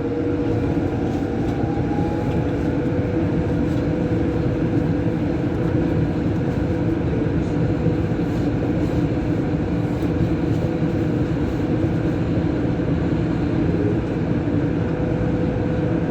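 Rubber-tyred Lyon Metro line B train running at steady speed between stations, heard from inside the car: a constant rumble with a steady motor hum.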